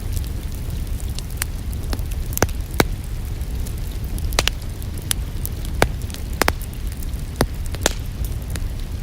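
Wood fire crackling: sharp irregular pops and snaps, about a dozen, over a steady low rumble.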